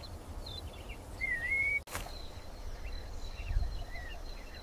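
Open-country ambience: a low wind rumble with scattered small bird chirps and one clear, wavering whistled bird call about a second in. The sound breaks off abruptly just under two seconds in, and after that a faint steady high whine runs under more chirps.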